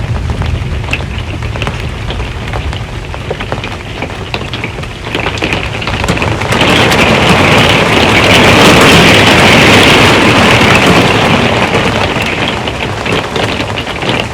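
Rain falling on an RV's metal roof, with individual drops ticking on the metal. About six seconds in the rain grows much heavier and louder for several seconds, then eases off near the end.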